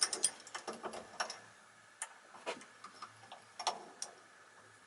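Irregular sharp metallic clicks and taps as small metal parts and tools are handled while a stud is taken out after a bearing has been pulled from a vacuum cleaner motor.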